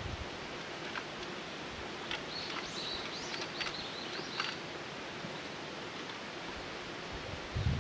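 Outdoor ambience: a steady hiss with a short run of high chirps from a bird singing in the middle, a few faint clicks, and a low thump near the end.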